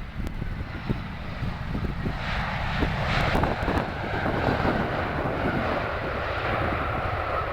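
Jet airliner's engines passing overhead: a roar that builds about two seconds in, with a high whine slowly falling in pitch. Wind buffets the microphone.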